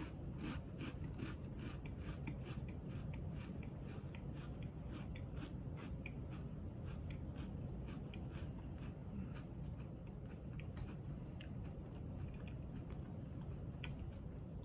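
A person chewing a crunchy peanut butter creme sandwich cookie: a run of small crisp crunches, about two or three a second at first, becoming more scattered in the second half.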